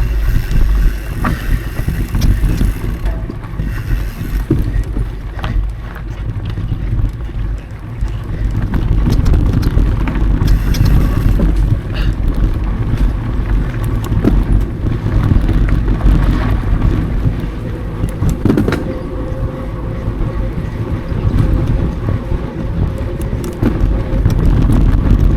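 A mountain bike riding fast over dry dirt singletrack: a continuous rumble of wind buffeting the action camera's microphone and of the tyres on the trail. Scattered clicks and rattles come from the bike throughout.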